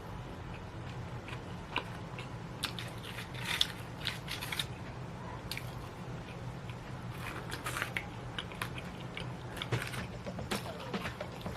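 Close-up eating: scattered bites, chewing and small mouth clicks, over a steady low hum.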